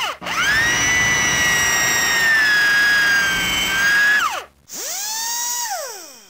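Electric drill motor whining: it spins up to a high steady whine, sags a little, then winds down about four seconds in; a shorter run at a lower pitch follows, spinning up, holding briefly and winding down near the end.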